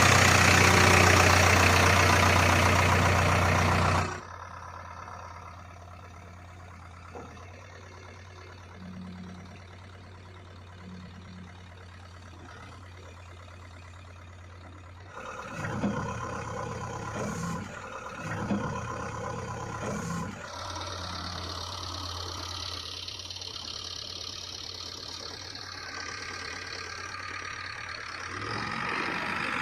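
Heavy diesel machinery engine running, very loud at first and then dropping suddenly to a quieter steady run about four seconds in, with a few knocks and clunks around the middle.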